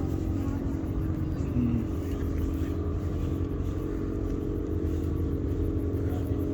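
Vehicle engine running steadily at idle, a low hum with no revving.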